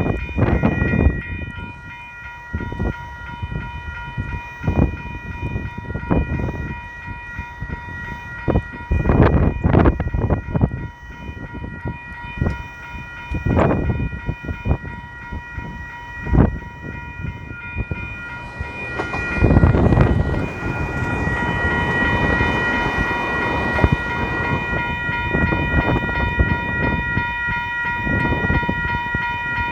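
Level crossing warning bells ringing steadily while a train passes over the crossing, its wheels knocking irregularly over the rails. A louder rushing swell comes about two-thirds of the way through.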